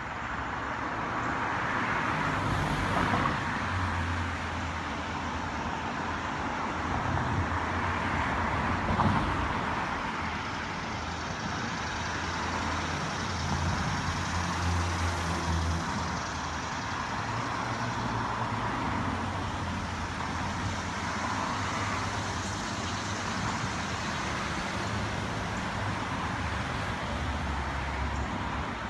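Steady road-vehicle noise: a constant rush of tyres and engine with a low rumble, swelling gently now and then.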